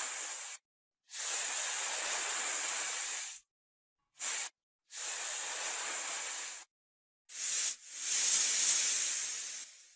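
Snake hissing in a string of separate hisses: a hiss ending just after the start, then longer ones of about two seconds each, with two short sharp hisses between them, each with dead silence around it. The last hiss swells and fades out near the end.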